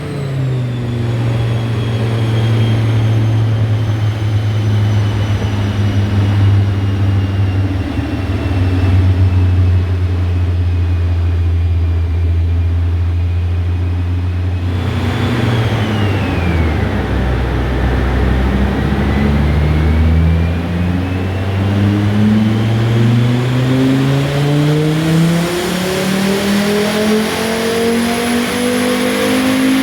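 Turbocharged Volvo B5244S five-cylinder engine in a BMW E36 on a dyno, running at a steady speed, then dropping lower about halfway through and revving up steadily through the last third as it is pulled up the rev range. A high whine falls and rises in step with the engine.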